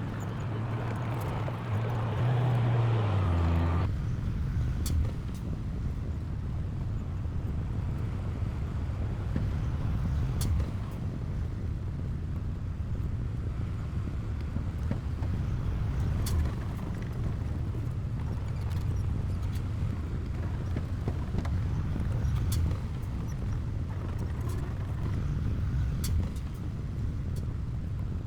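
Diesel engine of heavy earthmoving machinery running under load, louder and with its pitch rising for the first few seconds, then changing abruptly to a steady low drone. A few sharp knocks sound now and then over it.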